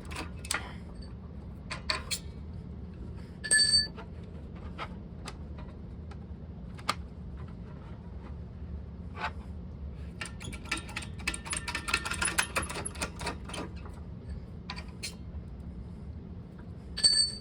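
Sheet steel and a 3D-printed plastic mold clicking and clinking as the panel is worked through a series of presses, with a dense run of rapid clicks around the middle. Two brief metallic pings ring out, about three and a half seconds in and near the end, over a steady low hum.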